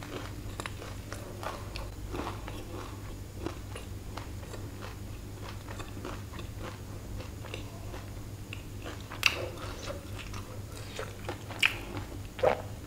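Close-up chewing of a mouthful of Burger King Cheese Meltdown burger: wet mouth sounds and many small crunchy clicks, with a few sharper smacks in the last few seconds, over a steady low hum.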